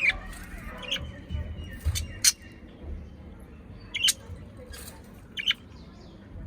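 Pet parrot giving a handful of short, sharp squawks and chirps, spaced a second or more apart.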